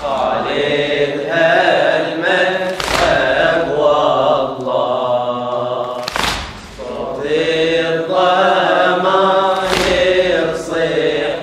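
Voices chanting a Shia latmiya elegy in a slow, drawn-out melody. A loud thump of chest-beating keeps time about every three and a half seconds.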